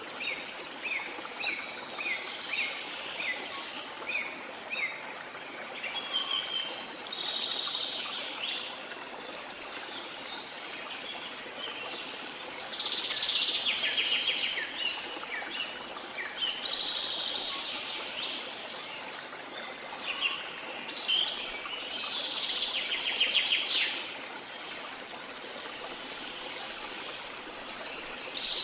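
Birds singing over the steady rush of a waterfall. A run of short chirps, about two a second, opens, followed by bursts of trilling song every few seconds.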